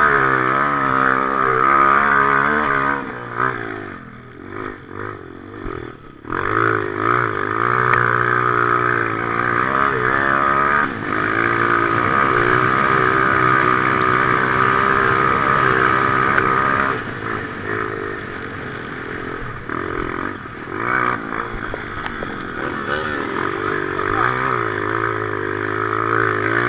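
Motocross motorcycle engine revving hard, its pitch rising and falling again and again as the throttle opens and closes. It drops off for a few seconds about three seconds in, then picks up again.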